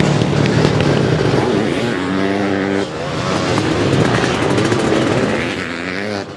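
Sidecar motocross outfits' engines racing on the track, revving up and down with shifting pitch. One engine holds a steady note for under a second about two seconds in.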